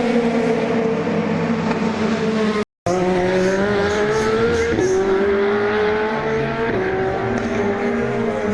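Race car engine at full throttle accelerating up through the gears: the revs climb, then drop sharply at each gear change, about two and four seconds after a brief break in the sound. Before the break the engine note is falling.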